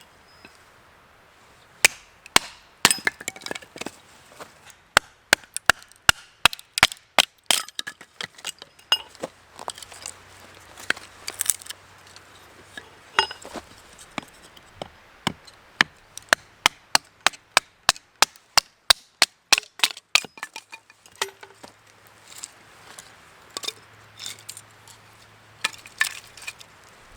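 Wood being chopped: a long run of sharp strikes, about two a second, starting about two seconds in, with a short pause about three quarters of the way through.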